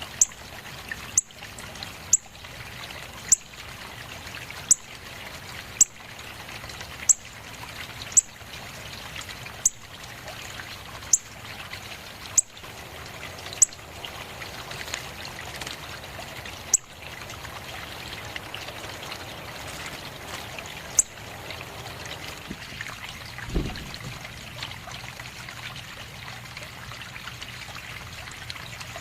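Steady trickle of running water, with short sharp high ticks every second or so through the first two thirds and one low thump later on.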